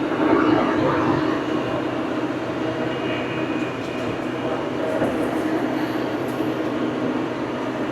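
Old farm tractor's engine running steadily under load while bush hogging, with a constant drone.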